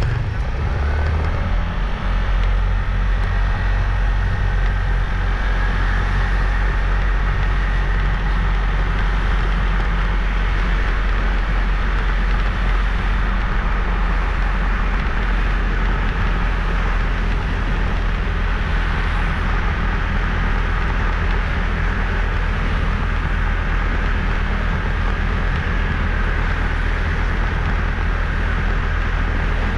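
Steady riding noise from a moving motorbike: a heavy low wind rumble on the microphone over the running engine and road noise, unchanging throughout.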